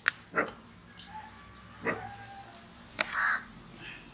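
Birds calling outdoors: a few short, harsh calls, the longest a bit after three seconds in.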